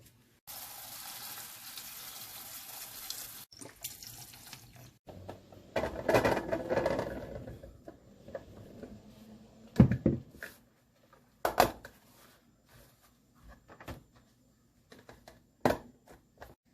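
Water running from a tap into a sink, cut off abruptly after about three seconds, then running again briefly. A few separate knocks follow near the end.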